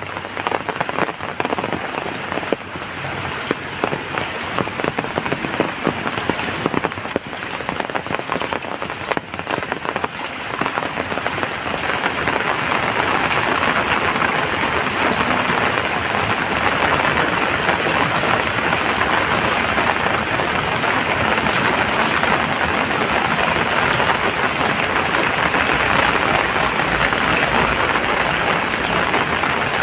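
Rain falling, with separate drops spattering plainly at first; about twelve seconds in it becomes louder and denser, a steady downpour.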